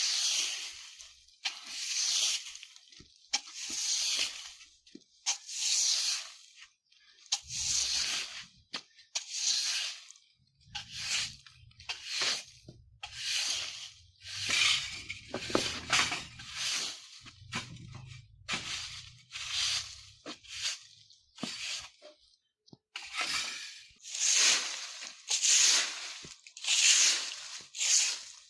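Broom sweeping dry fallen leaves on the ground: a regular series of rustling swishes, about one stroke a second, with a faint low rumble under the middle stretch.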